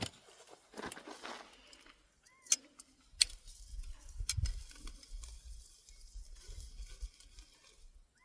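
Handling noise: light clinks and two sharp clicks, the first with a brief metallic ring, then low rumbling bumps.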